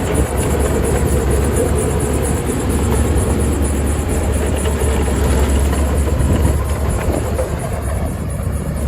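Heavy diesel earthmoving machinery running steadily: a loud, continuous engine noise with a deep low rumble.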